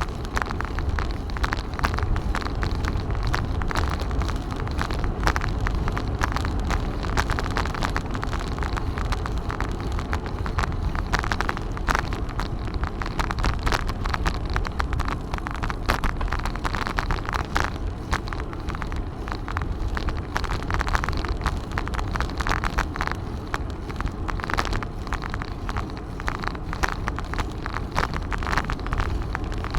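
Wind rumbling steadily on the microphone of a moving bicycle ride, with constant crackling and rattling from the bike rolling over the path.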